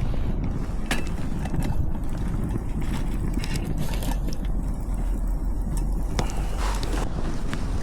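Wind buffeting the microphone in a steady low rumble, with scattered light clicks and knocks over it.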